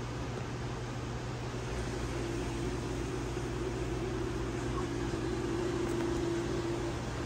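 Steady low mechanical hum with a faint steady tone that comes in about two seconds in and stops near the end.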